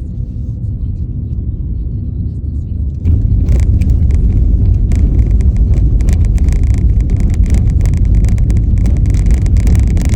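Car driving, heard from inside, with steady road rumble; about three seconds in it gets suddenly louder as the tyres go onto a stony gravel road, with a dense crackle of stones under the tyres.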